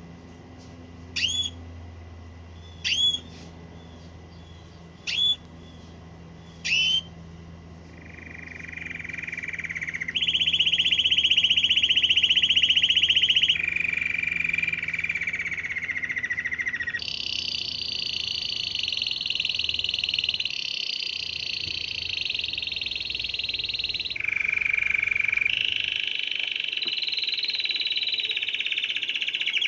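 Canary singing: four short rising chirps a couple of seconds apart, then a long run of rapid rolling trills, each held for two to three seconds before the song jumps to a new pitch.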